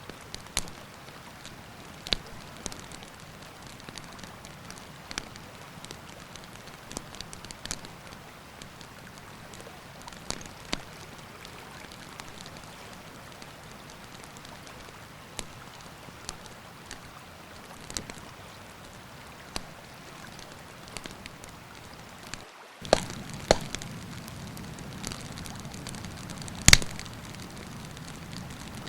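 Wood campfire crackling with scattered sharp pops over the steady rush of a river. About 23 seconds in the sound drops out briefly and comes back louder, with denser crackling and one loud pop a few seconds later.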